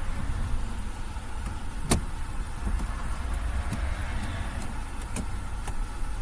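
Small clicks and knocks of a microphone wire being pulled tight and tucked into interior trim, with one sharp click about two seconds in and a few lighter ones near the end, over a steady low rumble.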